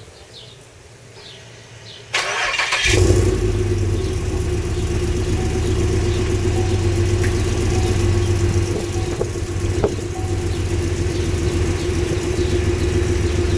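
2006 Impala SS 5.3-litre V8 being started through catless headers and a Magnaflow exhaust: about two seconds in the starter cranks briefly, the engine catches with a short rev flare, then settles into a steady, deep idle.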